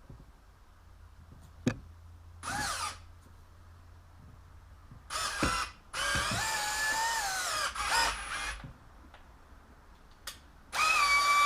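Power drill run in several short bursts, the longest about three seconds, its motor whine sagging in pitch as the bit bites: drilling out a stripped bolt hole in a two-stroke jet ski engine's exhaust manifold, oversizing it for a helicoil.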